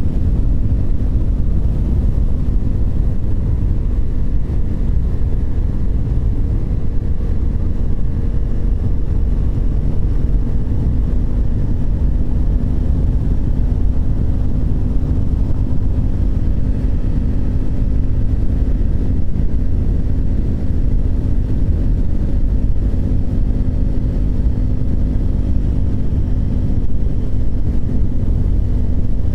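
Triumph Speed 400's single-cylinder engine running at a steady cruise, holding one pitch, with wind rumbling heavily on the microphone.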